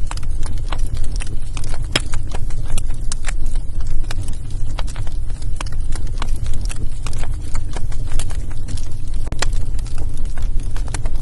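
Wood fire burning in a fireplace, crackling with frequent irregular pops over a steady low rumble of the flames.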